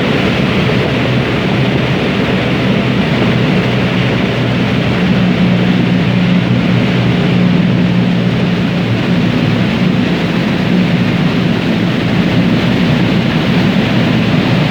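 Passenger ferry's engines running steadily: a low, even hum under a loud, constant rushing noise.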